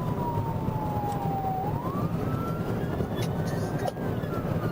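Police car siren in a slow wail: the tone falls, rises again about two seconds in and falls once more near the end, over a steady low rumble of road and engine noise.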